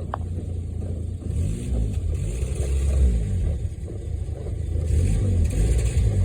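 Car engine idling with a low, steady note and no surging, its holed exhaust pipe patched by hand. The idle holds steady rather than dipping toward a stall.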